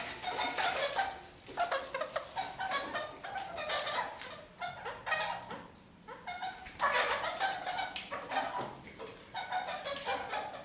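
Red-crowned kakariki (red-crowned parakeets) chattering and calling, a busy run of short, quickly changing calls that eases off about halfway through and then resumes.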